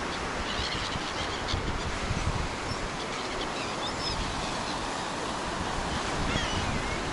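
Steady roar of wind and sea surf in a blizzard, with wind buffeting the microphone. A few faint, high bird calls come through several times.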